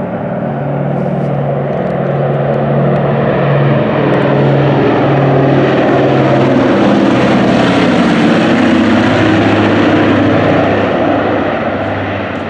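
Propeller airplane flying past: its engine drone grows to its loudest about halfway through, then drops in pitch as it goes by and begins to fade.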